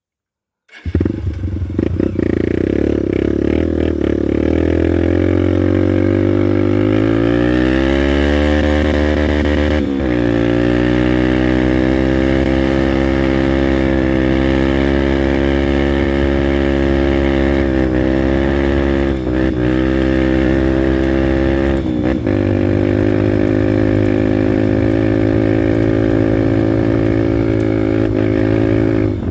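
Honda Bros 150 motorcycle's single-cylinder four-stroke engine pulling away, rising in pitch for several seconds before a gear change about ten seconds in. It then runs at a steady cruise, with two brief drops in revs later.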